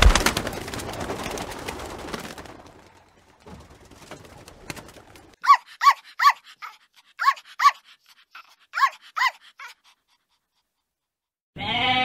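A pigeon's wings flap hard on take-off, a rapid clatter of wingbeats that fades over the first two seconds. Then a Pomeranian yaps, seven short high barks in twos and threes. Near the end a sheep begins a long bleat.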